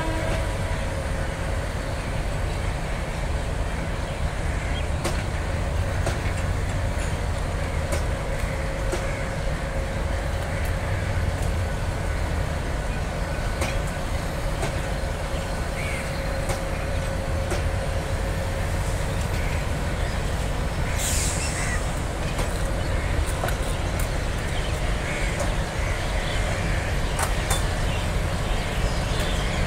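Intercity passenger train coaches rolling past on the track: a steady low rumble of wheels on rail with scattered clicks, and a short hiss about two-thirds of the way through.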